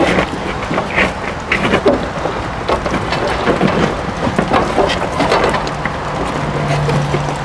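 RV water heater being pulled and worked out of its metal compartment: irregular scraping, knocks and clatter.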